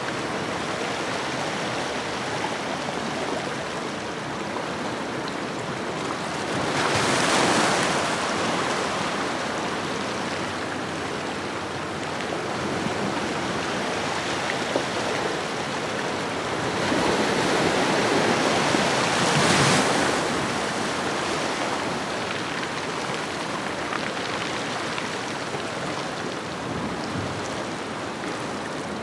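Ocean waves washing onto a shoreline: a steady hiss of surf with two waves swelling and breaking, about 7 seconds in and again about 19 seconds in.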